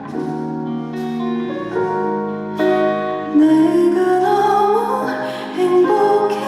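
Live soft ballad music: gentle instrumental accompaniment with notes changing about once a second, joined about three and a half seconds in by a female voice singing a rising line.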